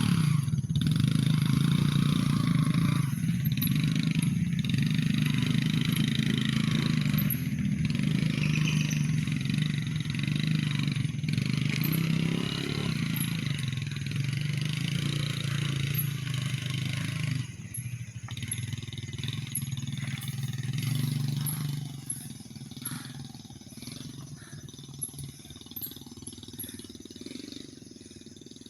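A motor vehicle's engine running steadily, dropping away about two-thirds of the way through, briefly coming back, then fading to quieter background.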